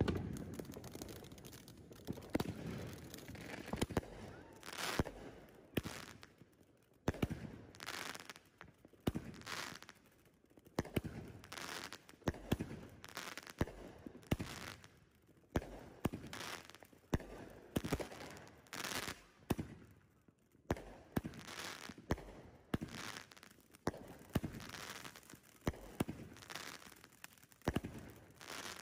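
A consumer firework cake firing a rapid string of aerial shots, a sharp bang more than once a second with no pause.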